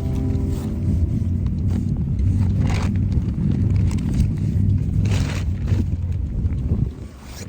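Wind buffeting the microphone as a low, dense rumble, with a few brief scraping rustles about three and five seconds in.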